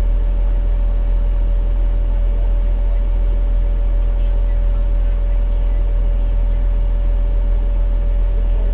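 Fire engine's diesel engine running steadily: a low rumble with a steady thin whine above it.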